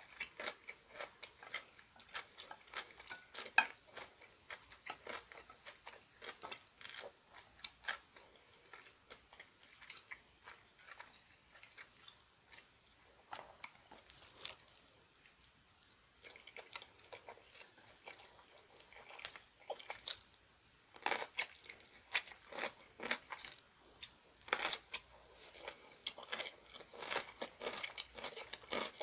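A person chewing food close to the microphone, eating bone-in chicken feet and seaweed rice balls, with many irregular sharp crunches and wet mouth sounds. The crunching thins out for a few seconds past the middle and grows denser and louder in the second half.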